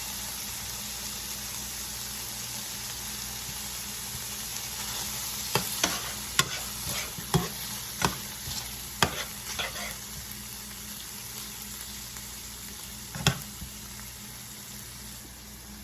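Onions, pepper and tomato paste frying in oil with a stick of butter, a steady sizzle that eases off a little over time. Sharp clicks and knocks of cookware come several times around the middle and once more near the end.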